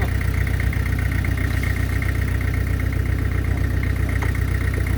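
Heavy-equipment diesel engine idling steadily, with a steady high whine above its low rumble.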